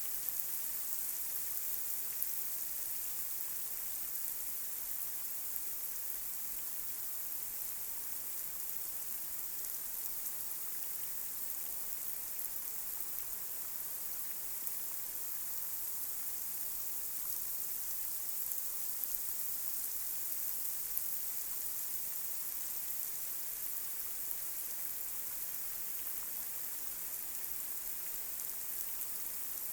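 Light rain falling steadily on a street, a continuous high hiss with scattered small drop ticks.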